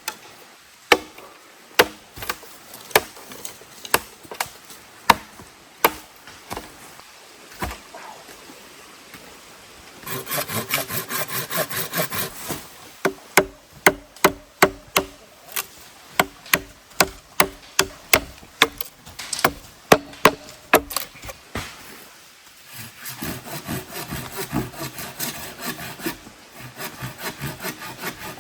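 Wood, likely bamboo, being worked by hand: sharp knocks of a blade or hammer, about one a second at first and faster around the middle. Two stretches of rapid back-and-forth sawing strokes fall between them.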